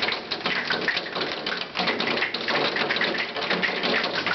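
Hail pelting down in a storm: a loud, dense, unbroken clatter of countless small impacts.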